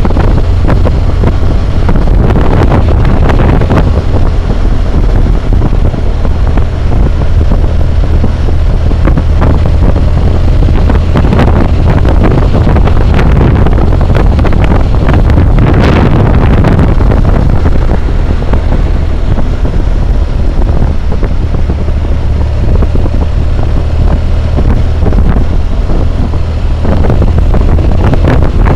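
Steady wind roar on a helmet-mounted camera's microphone at riding speed, with the BMW motorcycle's engine running underneath. It is heaviest at the low end and swells briefly about sixteen seconds in.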